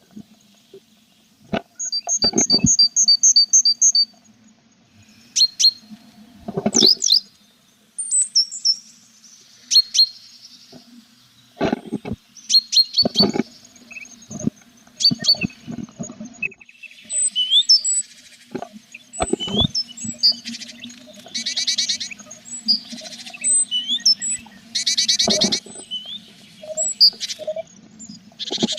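Tit nestlings and parent calling in a nest box: rapid series of high peeps, then loud buzzy begging bursts about two-thirds of the way through, among frequent knocks and scratches of the birds moving against the box. A low steady hum runs underneath.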